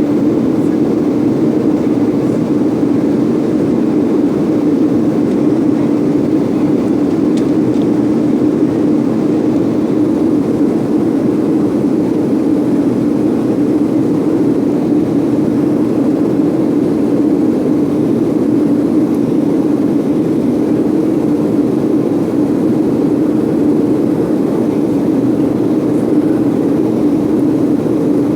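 Steady roar of a Boeing jet airliner's engines and rushing air, heard from inside the cabin during the climb after takeoff. The noise holds an even, deep level throughout, with no changes in thrust.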